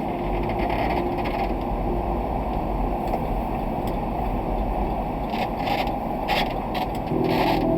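Delivery truck driving, heard from inside the cab as a steady road and engine rumble. A few short rattles come in over the last few seconds.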